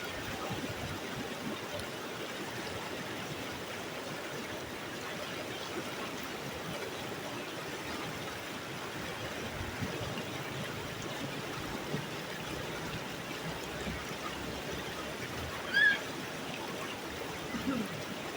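Steady rushing of a stream flowing over rocks. About two seconds before the end, a short, loud, high-pitched call cuts through, the loudest moment.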